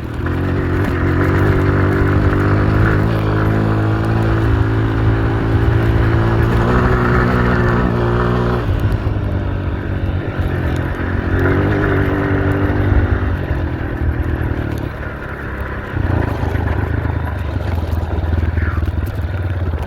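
Dirt bike engine being ridden hard, revving up and down through the gears, with the throttle eased off briefly a few times, most plainly a little before the middle and about three quarters of the way through.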